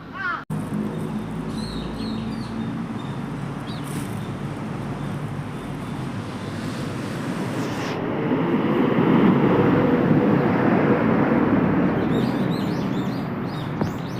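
Outdoor ambience of a passing vehicle: a steady rumble that grows louder about eight seconds in and then eases, with small birds chirping briefly near the start and again near the end.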